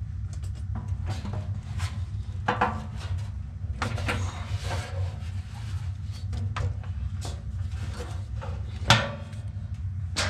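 Scattered clicks and knocks of tools and metal parts being handled while working on a furnace blower's loose motor mount bracket, over a steady low hum, with one sharper knock near the end.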